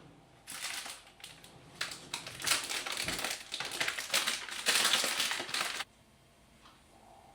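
Dry, crackly crunching of something crisp being crushed, in quick irregular bursts that stop abruptly after about five seconds.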